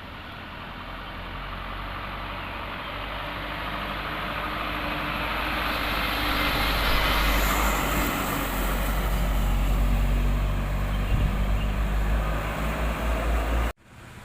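Loaded sugarcane truck's engine running, with road noise growing steadily louder as the truck approaches. The sound cuts off abruptly near the end.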